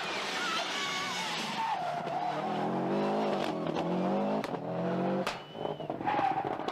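Subaru Impreza GC8 rally car's turbocharged flat-four engine revving hard, its pitch falling and rising again through the middle, with tyre skidding and a few sharp cracks in the second half.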